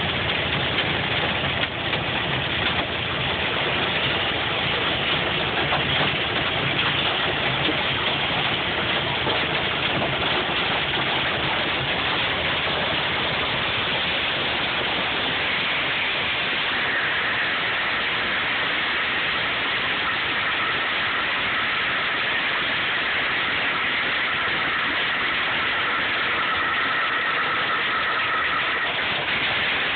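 Rain mixed with hail pelting a moving vehicle's roof and windshield: a dense, steady hiss over the running vehicle. A faint steady whine joins about halfway through.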